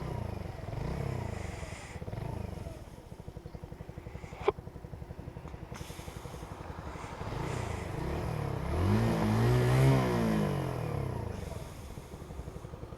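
Small motorcycle riding along the road, its engine running steadily under wind and road noise. A single sharp click comes about four and a half seconds in. Near the end an engine sound swells, rising and then falling in pitch, and is the loudest part.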